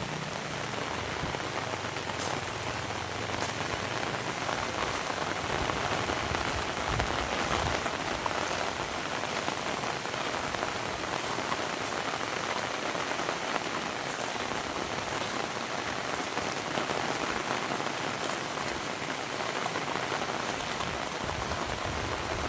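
Heavy rain falling steadily, a dense even hiss with a few sharp drip ticks scattered through it.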